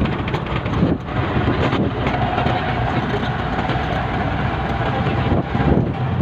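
CNG auto-rickshaw ride: its small engine running, with rattling road and wind noise. A faint steady whine sounds through the middle few seconds.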